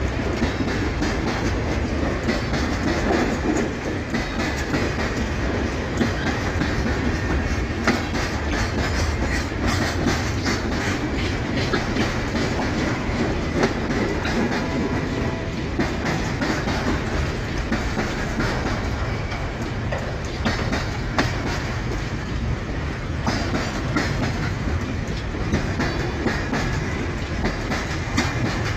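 Empty freight wagons of a train rolling past, a steady rumble with the wheels clicking and clacking over the rail joints.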